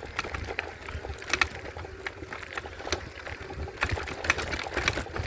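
Folding e-bike ridden along a rough towpath: tyre and frame noise with many scattered clicks and rattles over a low wind rumble on the microphone.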